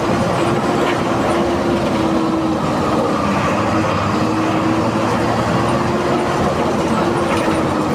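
MWM 6.12 TCE turbo-intercooled 7.2-litre six-cylinder diesel of a VW 17-230 EOD bus running under way, with a steady whine that drops slightly in pitch near the end as the bus eases off.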